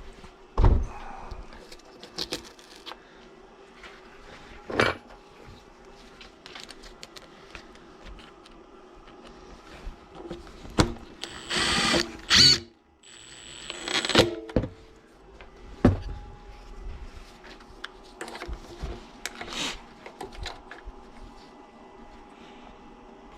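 Workshop handling sounds: scattered knocks and clicks over a faint steady hum, with a burst of hiss lasting about a second and a half, about halfway through.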